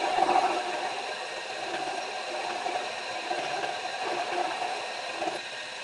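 Power grinder running steadily as it dresses the face of a steel blacksmith's punch.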